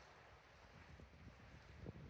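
Near silence outdoors, with faint wind buffeting the microphone in low rumbling gusts that pick up after about a second.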